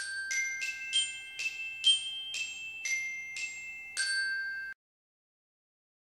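A short musical jingle of about ten struck, glockenspiel-like bell notes played as a quick high melody, each ringing on until the next. It cuts off sharply about four and a half seconds in.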